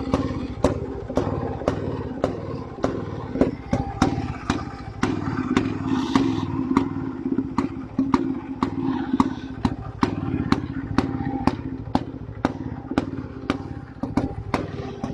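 IZh-49 motorcycle's single-cylinder two-stroke engine running steadily at low revs, a sharp clack recurring about twice a second over its even beat.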